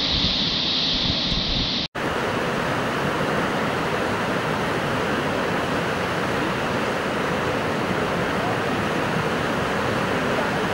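Steady rush of Indus River whitewater. About two seconds in, the sound cuts out for an instant and comes back with a wider, hissier quality.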